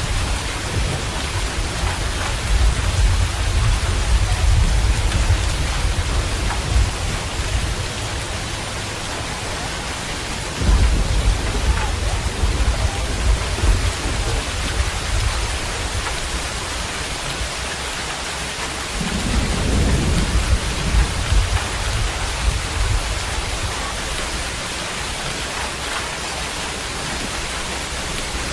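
Steady rain falling, with three rolls of thunder rumbling low under it; the middle one begins suddenly about a third of the way in.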